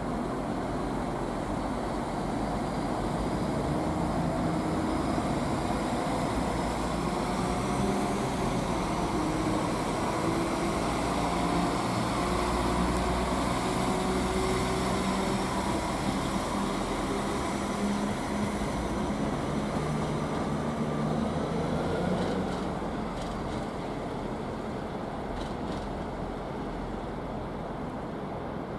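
A train running in a station: a steady mechanical drone with several steady tones, easing off a little over the last several seconds.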